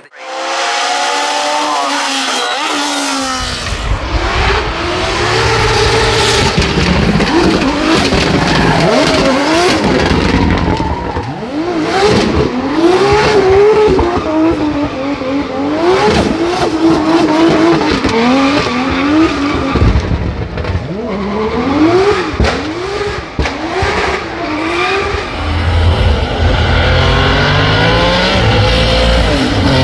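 Race car engine revving hard, its pitch climbing and dropping again and again as it accelerates, shifts and lifts, with tyre squeal.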